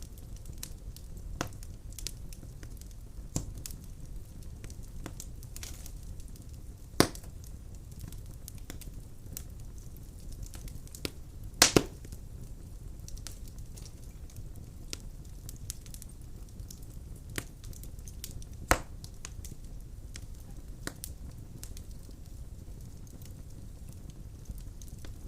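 Burning firewood crackling in a fireplace: a steady low rumble of the flames under frequent small pops and snaps, with a sharp louder pop about a third of the way in, a quick double pop near the middle and another pop about three-quarters through.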